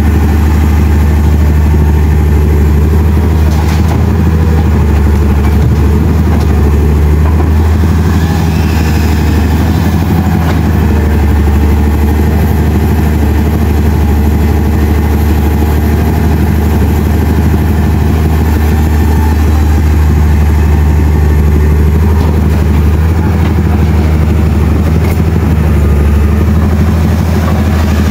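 A heavy vehicle engine running steadily at idle close by, a loud, even low drone with no revving.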